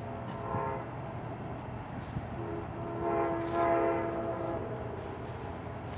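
Amtrak locomotive horn sounding a chord: a short blast, then a longer blast of about two seconds that starts a couple of seconds later, over a steady low hum.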